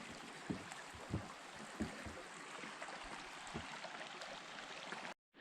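Left Hand Reservoir outlet stream rushing steadily, with a few soft low thumps; the sound cuts off abruptly just before the end.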